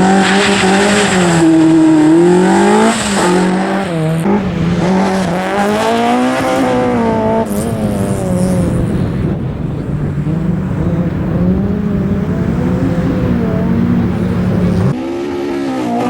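Fiat Punto's engine under hard driving on a superslalom run, its pitch climbing under acceleration and falling back on lift-off and gear changes, over and over. The level drops suddenly near the end.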